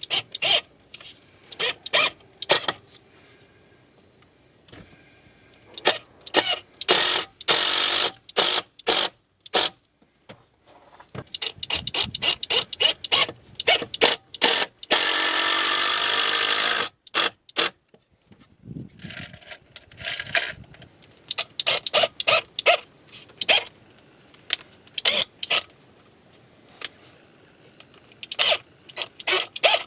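Tools working wood for a bed platform: a string of sharp knocks and clatter, with a power tool running steadily for about two seconds midway.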